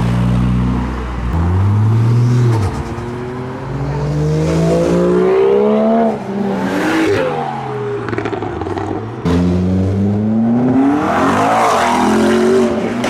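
Modified cars driving past one after another, each engine rising in pitch as it accelerates away, then sweeping past.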